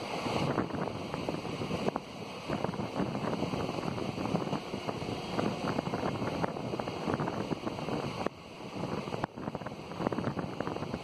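Passenger train running at speed, heard from an open coach door or window: a steady rush of wind over the microphone mixed with the rattle and clatter of the coach's wheels on the rails.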